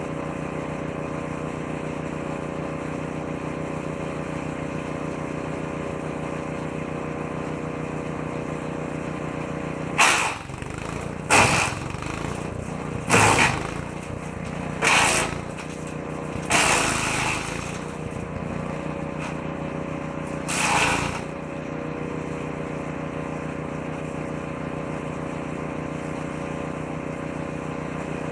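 Petrol woodchipper-shredder engine running steadily, then from about ten seconds in six loud bursts of wood being shredded as branches are fed in a bit at a time, the engine dipping briefly under each load.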